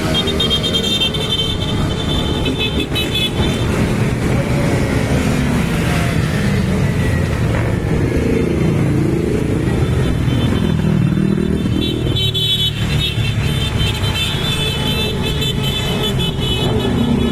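Motorcycle engines running and revving, their pitch rising and falling again and again. A steady high tone sounds over them for the first few seconds and again in the second half, like a horn being held.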